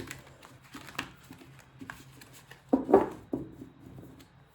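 Tarot cards being shuffled and handled, with a run of light card clicks and flicks and a louder shuffle about three seconds in, over a faint steady hum.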